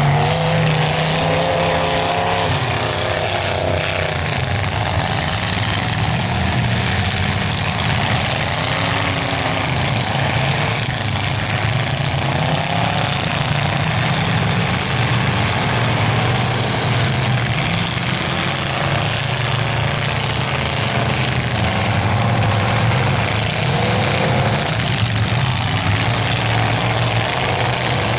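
Several demolition derby cars' engines running loudly together, revving up and down several times over a continuous noisy din.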